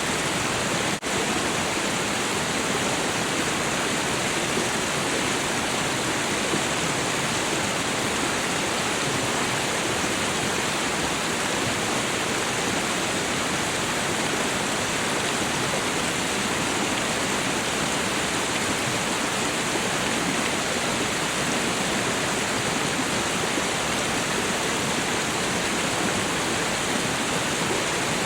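Waterfall: a steady rush of falling water, with a brief dip in level about a second in.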